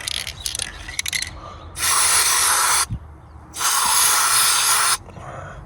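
Aerosol can of white grease spraying in two hissing bursts, about a second and a second and a half long, coating the driveshaft hub nut to protect it from corrosion. Small clicks of handling come first.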